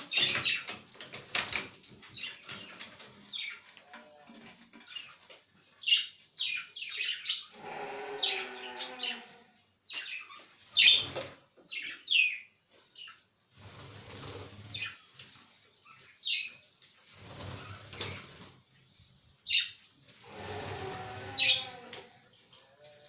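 Pet budgerigars chirping and chattering in short high calls, with stretches of warbling and wings flapping.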